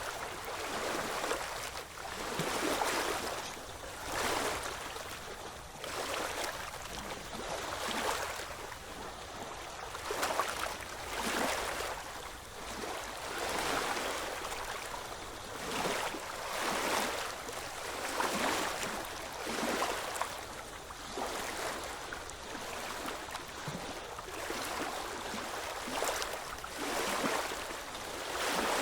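Small ocean waves washing in one after another, a hissing wash that swells and fades every second or two, with little low rumble.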